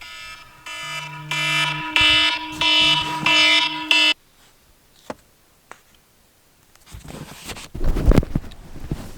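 An electronic alarm tone rings in a repeating pattern, then cuts off suddenly about four seconds in. After a quiet stretch come a few knocks and some rustling near the end.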